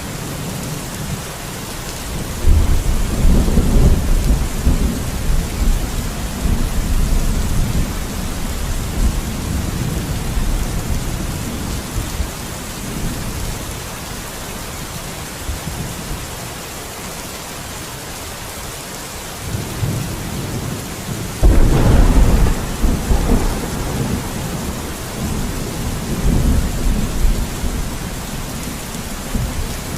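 Steady heavy rain with rolling thunder: a long low rumble a few seconds in, and a sharper, louder thunderclap rumbling on about two-thirds of the way through.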